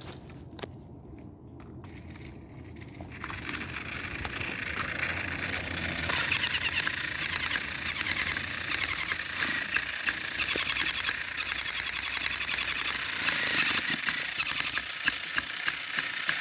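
Two battery-powered toy train engines running nose to nose and pushing against each other, their small motors whirring and their gears and wheels clicking rapidly. The noise builds over the first few seconds, then holds steady.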